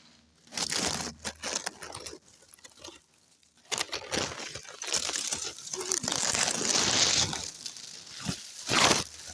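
Dry leaves and twigs crunching and rustling in irregular bursts, with the loudest burst near the end.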